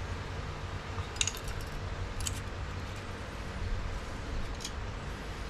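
A few light metallic clinks, spaced about a second apart, as small engine parts are handled, over a steady low hum.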